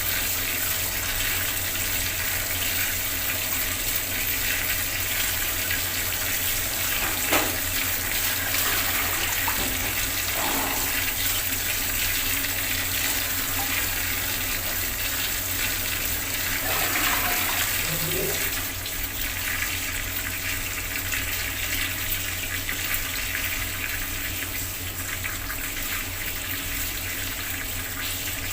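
Water running steadily from a bathroom tap, an even rushing splash that dips slightly in level about two-thirds of the way in.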